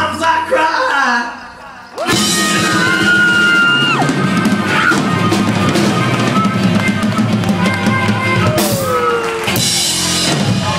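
Live rock band playing, with drum kit and guitar: the music thins out and dips briefly about a second in, then the full band crashes back in about two seconds in, with sliding, bending notes over the drums.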